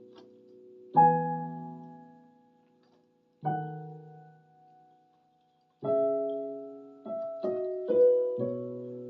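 Keyboard in a piano voice playing a slow, gentle melody: chords struck about a second in, again a few seconds later and again near six seconds, each left to fade, then a few quicker notes near the end.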